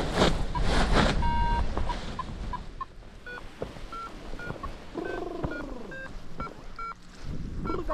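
Flight variometer beeping in short steady tones. The beeps step up in pitch about three seconds in and keep repeating, the vario's signal of rising air. Loud wind noise on the microphone in the first second, and a brief voice-like sound about five seconds in.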